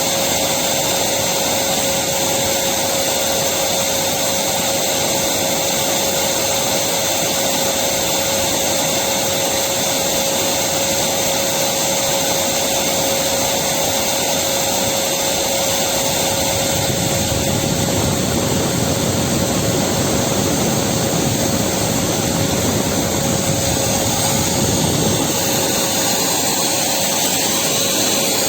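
Electric vacuum cleaner running continuously: a steady rushing noise with a fixed whine through it. The low end grows fuller for several seconds past the middle.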